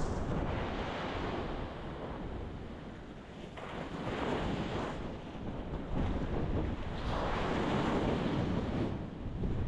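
Ocean waves breaking on a rocky shore, the wash swelling and fading three times, over a steady low rumble.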